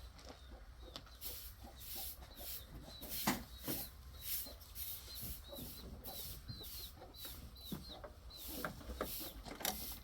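Chickens clucking, with a run of short high calls repeating through the middle.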